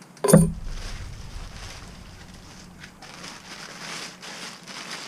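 A sharp knock about a third of a second in, then packaging being unwrapped, with plastic wrap crinkling and rustling.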